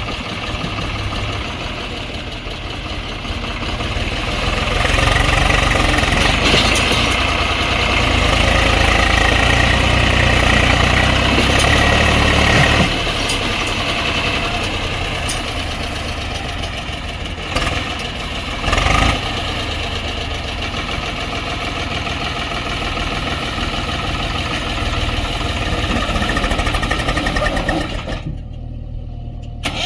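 Heavy diesel machinery working: a backhoe loader and tractor engines running. About five seconds in the engine note rises, with a high whine over it, and settles back about thirteen seconds in.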